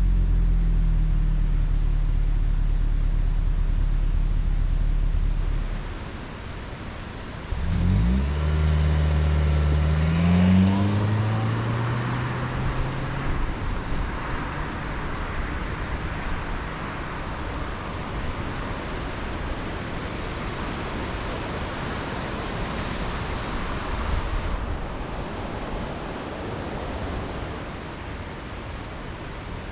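Lexus ES 300h's 2.5-litre petrol four-cylinder hybrid engine running steadily, then dropping away about six seconds in. It comes back and climbs in pitch under acceleration for several seconds, and after that road and wind noise takes over with the engine barely heard.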